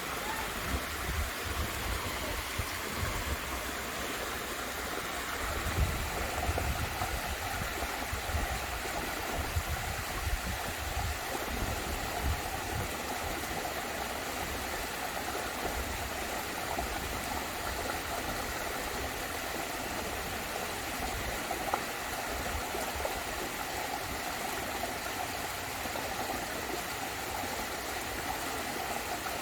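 Waterfall splashing in a steady, even rush, with irregular low rumbling bumps through the first dozen seconds.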